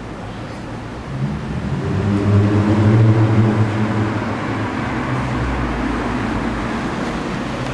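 Lexus IS250's 2.5-litre V6 running through an F-sport exhaust. The low exhaust note swells from about a second in, is loudest between about two and four seconds, then eases back to a steady rumble.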